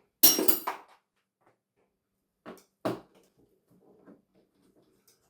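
Hard clatter of parts and tools being handled while taking apart a television: one loud clatter near the start, two short knocks about halfway, then faint small rattles.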